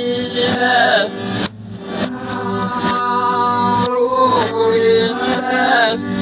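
A voice singing a song over music, with long held notes that waver in pitch and a brief break about a second and a half in.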